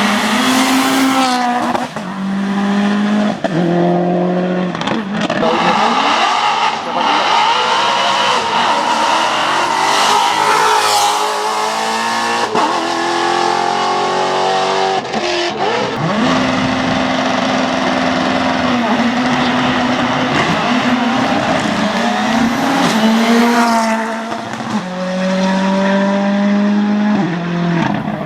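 Hillclimb race cars at full throttle, their engines revving high. The pitch climbs through each gear and drops sharply at every upshift, over several passes cut one after another.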